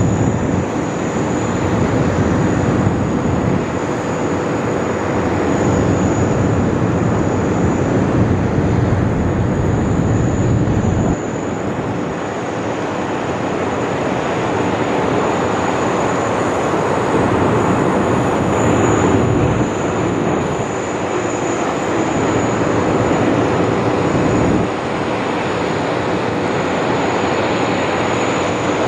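Jet noise from the Boeing 777X's twin GE9X turbofans as the airliner flies: a loud, steady rush with a thin high whine running through it. The sound changes abruptly twice, about eleven seconds in and again near twenty-five seconds.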